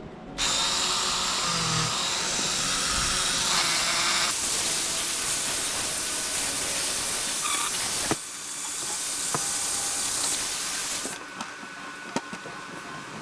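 A handheld power tool polishing the lantern's metal parts: a loud, even hiss for about eight seconds, then a quieter stretch that stops about eleven seconds in.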